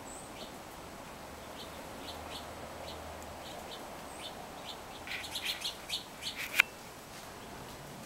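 Small birds chirping in short, scattered peeps, then a quick run of louder, sharper chirps about five seconds in.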